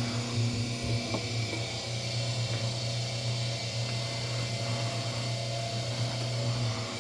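Electric wire stripping machine running with a steady motor hum, with a faint knock about a second in.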